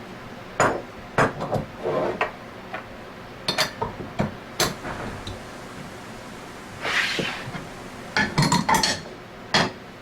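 Metal clinks and light knocks of small parts being handled as needle bearings are fitted back into an Anest Iwata scroll compressor part, with a short scrape about seven seconds in and a quick cluster of clinks near the end.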